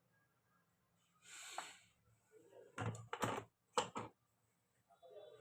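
Handling noise: a short scrape a little over a second in, then a handful of sharp clicks and knocks of hard parts.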